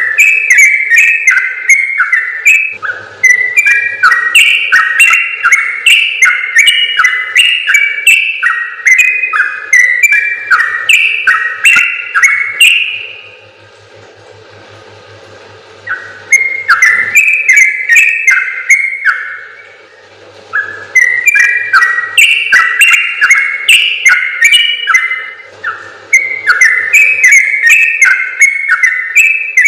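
Yellow-vented bulbul (trucukan) singing long, rapid runs of short bubbling whistled notes, a gacor 'ropel panjang' song. The song comes in several long phrases broken by short pauses, about thirteen seconds in and again around twenty seconds.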